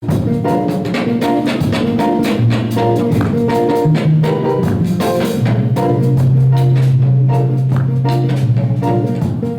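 Band music with a steady beat: drum kit, low bass notes and short chords repeated in a rhythm.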